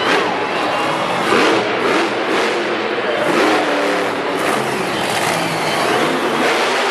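Monster truck engine revving hard and continuously, its pitch rising and falling again and again as the throttle is worked.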